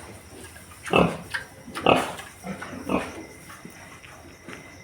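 Pigs calling: a few short grunts and squeals about a second apart, dying away after about three seconds.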